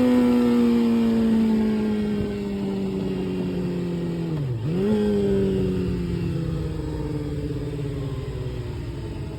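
Kawasaki Ninja sport bike engine slowing down, its pitch falling steadily. About halfway through it dips briefly and jumps back up, as in a downshift, then winds down slowly again.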